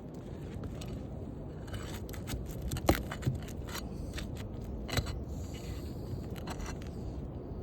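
Asphalt roof shingles being pried and scraped loose, a run of scratchy scrapes and crackles with sharp clicks, the loudest about three seconds in and another about five seconds in.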